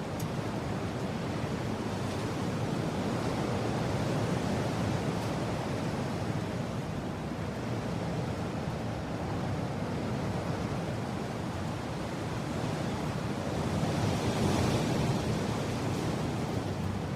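Strong mountain wind blowing in a steady rush, swelling into a louder gust about fourteen seconds in.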